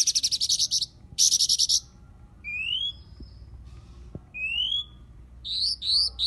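Cyornis blue flycatcher singing: two fast rattling trills in the first two seconds, then clear rising whistled notes repeated about every two seconds, with a quick run of short notes near the end.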